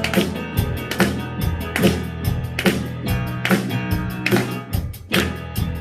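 Instrumental break in an upbeat worship song: guitar and bass over sharp, regular beats, with the congregation clapping along in time.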